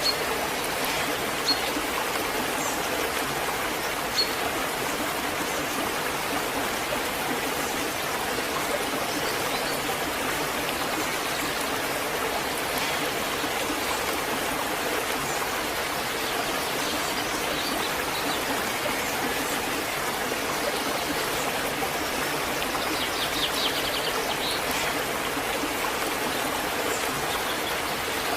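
Waterfall: a steady rush of falling and flowing water.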